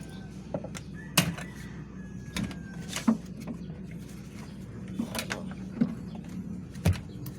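Scattered knocks and clunks from work on a Howo dump truck's air filter housing, about five in seven seconds, over a steady low hum.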